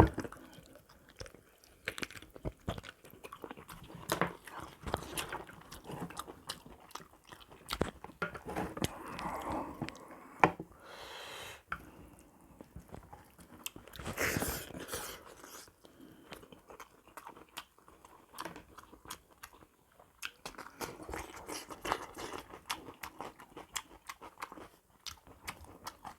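A person eating close to the microphone: chewing and biting with crisp crunches and wet mouth clicks, in irregular bursts.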